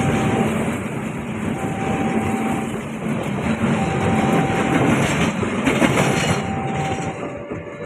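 A train running past on the rails, a steady loud rumble with a few wheel clicks about five to six seconds in, fading near the end. A short steady tone sounds about once every two seconds.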